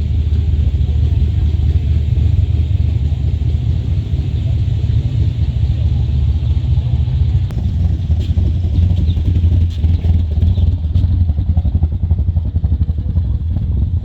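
A vehicle engine running steadily at idle, with a few faint high chirps in the second half.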